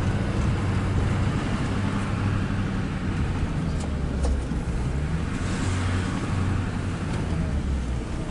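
Tow truck engine running with a low, steady drone; its pitch shifts slightly a little past halfway through.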